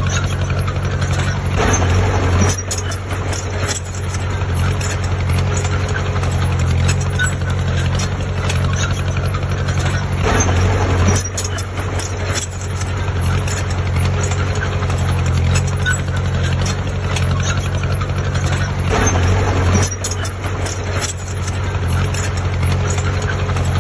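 Heavy diesel earthmoving machine engine running steadily, with louder noisy surges about every eight to nine seconds.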